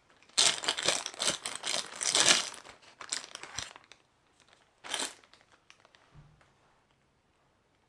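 Crinkling and rustling for about two seconds, then one short rustle about five seconds in.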